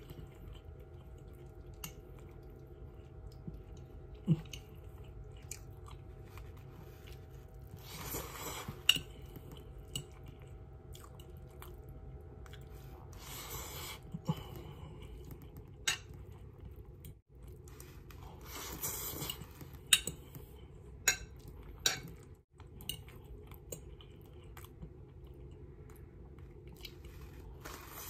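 A person chewing a mouthful of pansit noodles close to the microphone, with sharp clicks now and then as a metal fork taps a glass food container.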